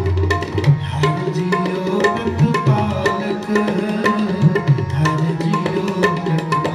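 Tabla playing a fast stroke pattern, the bass drum's deep strokes sliding up and down in pitch, over steady held notes of the accompaniment.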